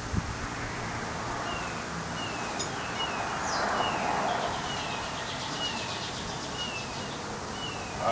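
A bird repeating a short, high, falling call about once a second, over steady outdoor background noise that swells briefly in the middle.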